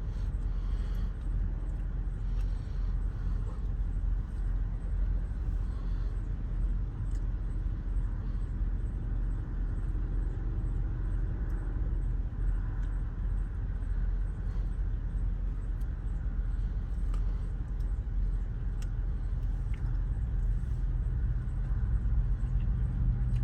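Ford Transit Connect van's engine idling, a steady low rumble.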